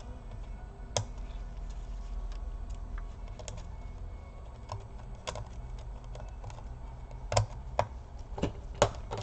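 Scattered clicks and taps of plastic laptop parts being handled and pressed into place during reassembly, a few more often near the end, over a low steady hum.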